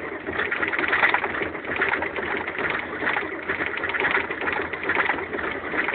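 Chevy IDI diesel engine cranking on its starter in the cold with a fast, even rhythm, trying to fire but not catching. This is a hard cold start, which the owner suspects is down to a burned-out glow plug.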